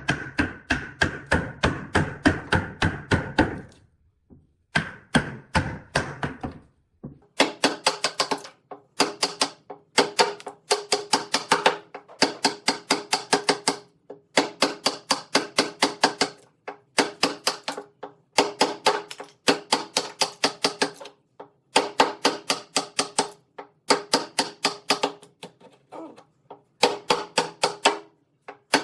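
Rapid, evenly repeated tapping strikes of a hand tool on wood, about six a second. A long run comes first, then short runs of about a second with brief pauses between them. From about seven seconds in the taps sound brighter.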